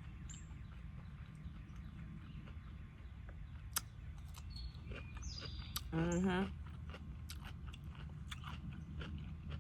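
A person chewing a dill pickle, with scattered crunchy clicks, and a short closed-mouth "mm" of approval about six seconds in.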